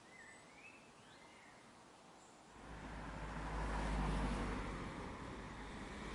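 A few short bird chirps over faint background noise, then a motor vehicle passes: engine and road noise swell in about two and a half seconds in, loudest a little later, and stay fairly loud as it goes by.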